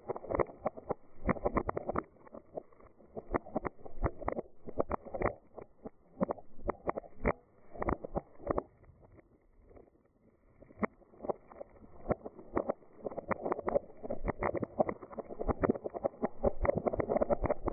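Dried beans rolling and pouring: a dense run of small clicks over a rushing hiss that swells and eases in waves, dropping off briefly about ten seconds in.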